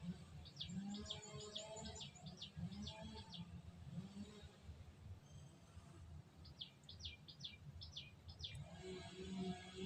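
Red-vented bulbul calling in two quick runs of short, sharp chirps, the first about half a second in and the second a few seconds later, over a steady low background rumble.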